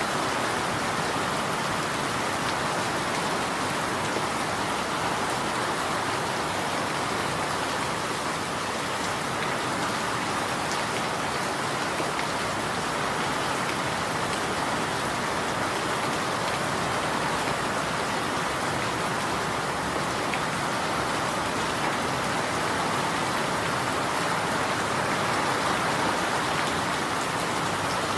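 Steady rain falling and pattering on a surface, an even hiss without thunder or other events.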